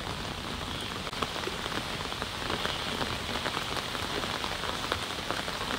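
Steady rain falling on pond water: a dense, even patter of individual drops.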